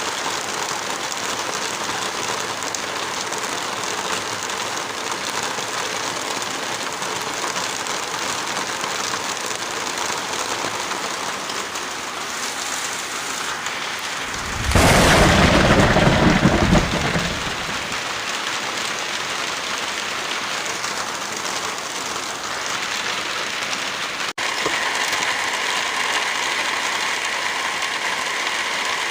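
Heavy rain falling steadily. About halfway through, a loud clap and rumble of thunder lasts about three seconds. Near the end there is a brief dropout, after which the rain sounds slightly different.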